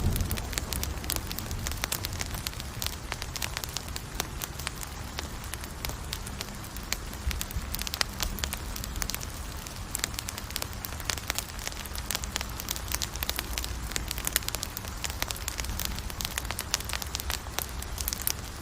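Campfire burning with dense, irregular crackling and pops over a low steady rumble of the flames.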